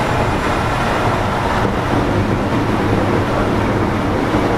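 Keio 7000 series electric train running, heard from inside the passenger car: a steady rumble of wheels on rail with a low hum underneath.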